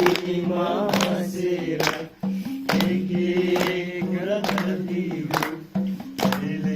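A group singing a song together, with held, wavering notes, over sharp rhythmic strokes about once a second.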